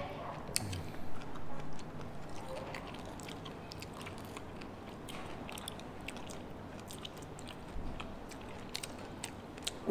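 Close-miked biting and chewing of fresh pineapple pieces, with many small wet mouth clicks.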